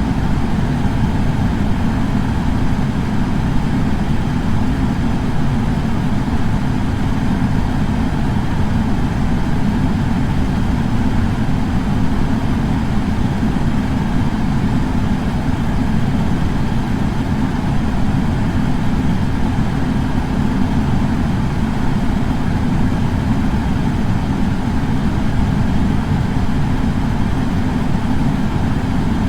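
Air purifier fan running steadily: a deep, even rush of air that does not change.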